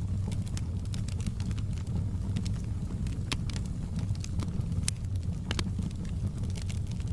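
A fire crackling: frequent irregular sharp snaps and pops, a few louder ones in the middle, over a steady low rumble.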